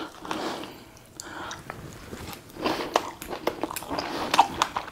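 A person chewing a mouthful of Caesar salad close to the microphone, with many small crisp crunches that come thicker over the last two seconds or so.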